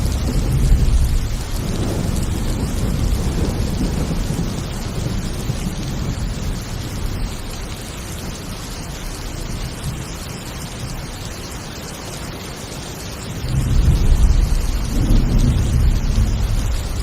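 Thunderstorm: heavy rain hissing steadily, with rolling thunder. One long low rumble fades out over the first few seconds, and another swells up near the end.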